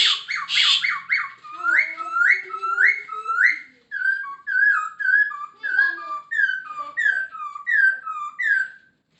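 Poksay Hongkong laughingthrush singing loudly: a rapid run of notes with a couple of harsh calls at the start, then a series of rising slurred whistles, then falling slurred whistles, each about two a second, stopping just before the end.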